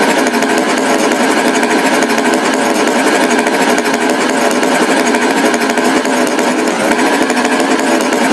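A loud, steady mechanical rattle like an engine running, unbroken throughout.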